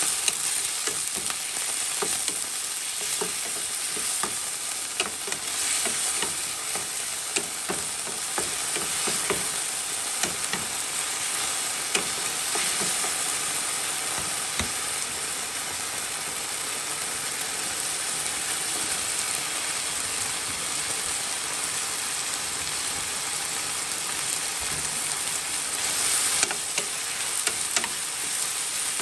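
Chicken and garlic sizzling in oil in a nonstick frying pan, with a wooden spatula clicking and scraping against the pan now and then as it is stir-fried. Near the end shredded cabbage goes in and the sizzle briefly grows louder.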